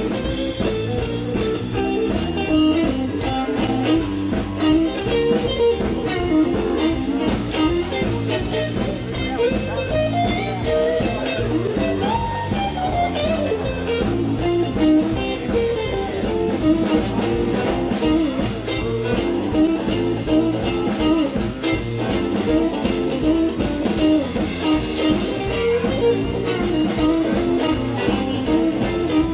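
Blues-rock band playing an instrumental break, an electric guitar leading over bass and a steady drum beat.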